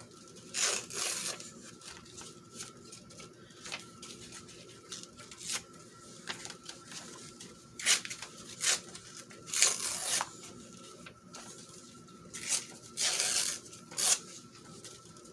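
Decorative paper being torn by hand, in a series of short rips with pauses between them.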